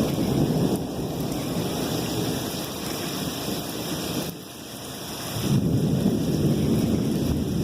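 Thunder rumbling over steady rain. The rumble eases about four seconds in, then a fresh rumble of thunder builds about a second later.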